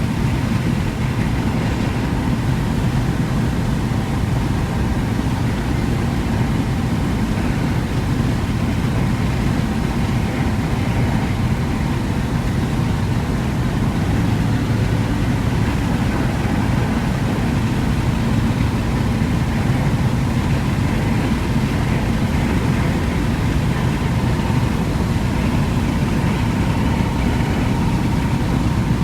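Steady road and engine noise heard from inside a car driving along, with a faint steady whine running underneath.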